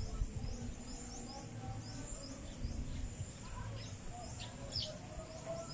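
Small birds chirping: a run of short, high, falling chirps about twice a second, with two louder calls a little over four seconds in, over a low rumble.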